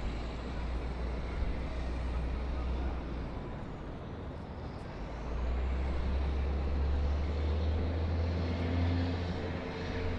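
City traffic and engine rumble, a low steady drone under an even wash of noise that grows louder about five seconds in.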